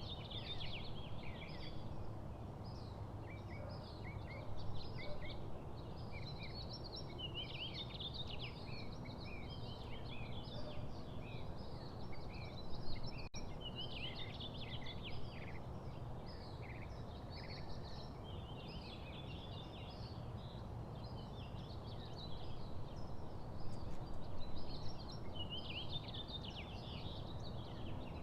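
Small songbirds chirping and twittering, many short high calls overlapping throughout, over a steady low background rumble.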